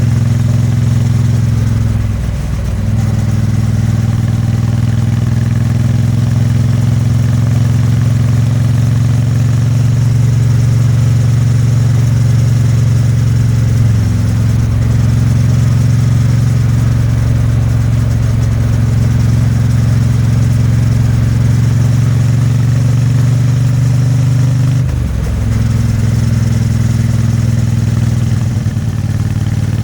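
Exhaust note of a 2022 Triumph Bonneville T100's 900 cc parallel twin, steady while the bike is ridden along. The engine note briefly dips about two seconds in and again about twenty-five seconds in, then picks back up.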